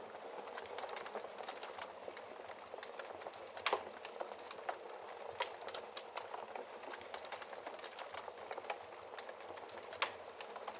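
Wood fire in a fireplace crackling, a dense run of small pops over a soft hiss, with two louder snaps, about a third of the way in and near the end.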